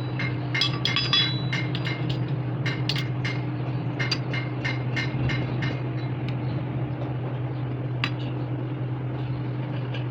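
Irregular light metal clinks and taps of small parts being handled and struck, several close together in the first half and sparser later, over a steady low machine hum.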